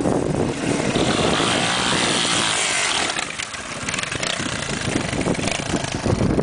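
Off-road motocross motorcycle engine running and revving, with a loud rushing hiss for a couple of seconds about a second in.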